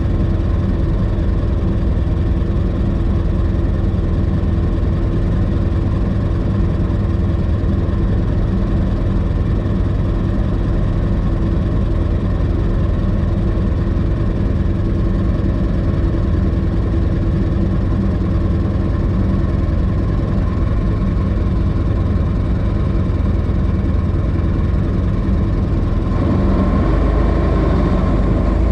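1926 Ford Model T's four-cylinder flathead engine idling steadily, its sound mostly low and deep. Near the end the engine note grows a little louder as the car starts to move off.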